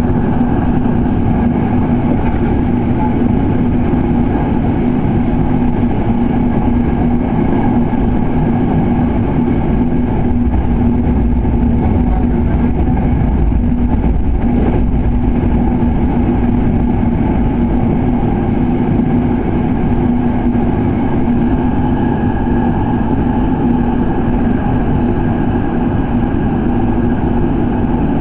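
Electric commuter train running at steady speed, heard from inside the car: a constant rumble of wheels on rail with a steady hum from the motors and gears.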